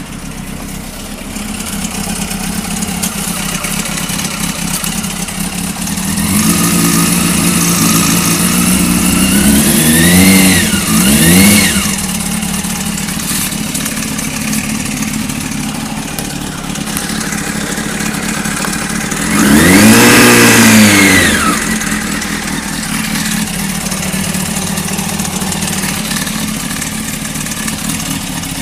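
Honda CBR600 F3's inline-four engine idling with a rattle, which the owner wonders is a failing cam chain tensioner. It runs a little higher from about six seconds in, is blipped twice just after ten seconds, and is revved once more, briefly, around twenty seconds before settling back to idle.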